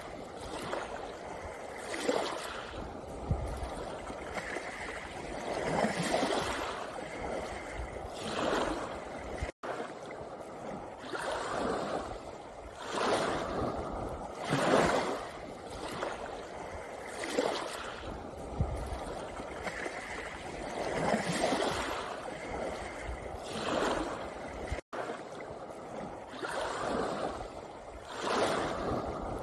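Small sea waves washing in on a pebble shore, one surge swelling and falling away every two to three seconds. The sound breaks off for an instant twice.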